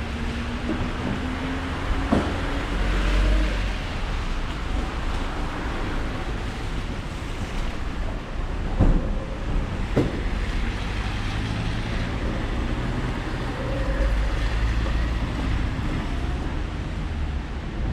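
Steady noisy rush of ambient street or indoor noise, with a low rumble swelling about three seconds in and again around fourteen seconds, like vehicles passing, and a few sharp knocks.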